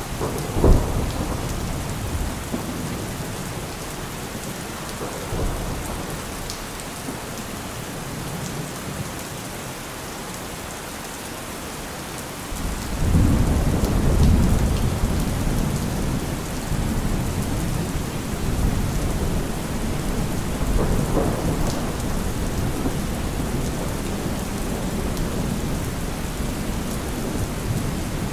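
Heavy rain falling steadily, with a sharp thunderclap under a second in. About halfway through a long, loud low rumble of thunder sets in, with another swell of thunder later.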